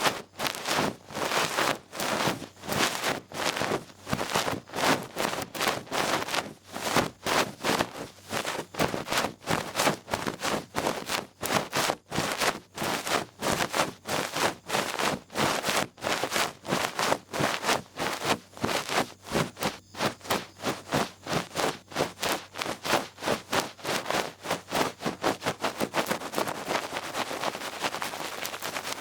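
Feather-tipped ear pick brushing over an ear microphone in quick rhythmic strokes, about two to three a second, which blur into a steadier rustling near the end.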